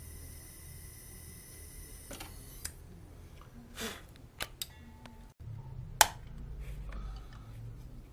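Scattered sharp clicks and knocks of tools and parts being handled over a low steady hum, with the loudest knock about six seconds in.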